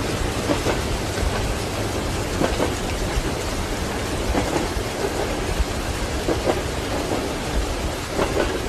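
Steady rain with a low rumble of thunder, and train wheels clacking over rail joints in short clusters about every two seconds.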